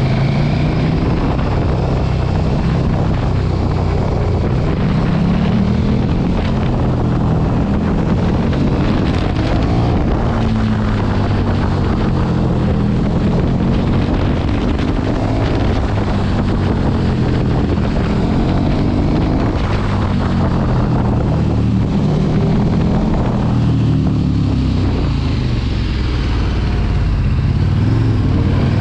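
Sport motorcycle engine under way, its revs rising and falling repeatedly as it accelerates and backs off, with wind rushing over the microphone.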